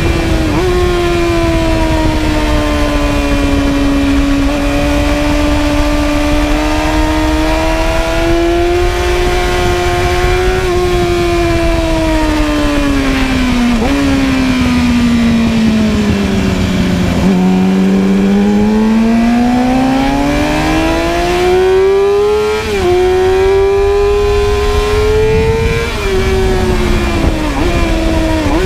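Inline-four sport bike engine at high revs under hard riding. The pitch climbs and falls with the throttle, with short breaks at the gear changes, and sinks to its lowest about two-thirds of the way in before climbing steadily again.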